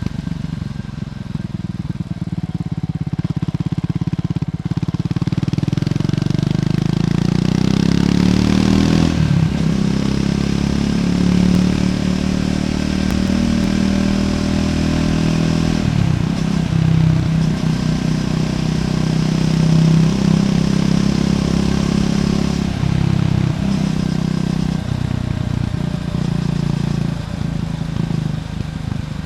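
Triumph Scrambler 400X's single-cylinder engine running through its stock exhaust under way. The revs climb for a few seconds, fall off sharply with a shift about nine seconds in, then pull steadily, with brief dips in throttle twice later on.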